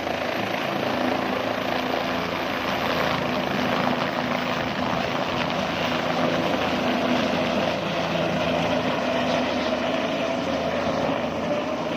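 A steady engine drone under a broad rushing hiss, unchanging in level.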